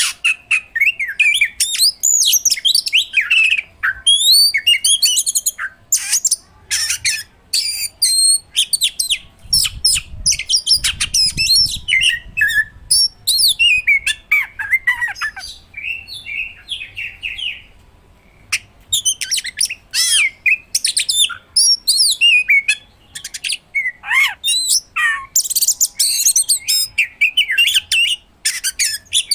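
Oriental magpie-robin singing at full tilt: a rapid, unbroken string of varied whistles, chirps and sharp, piercing 'shot' notes, packed with mimicked phrases, with a short pause about eighteen seconds in.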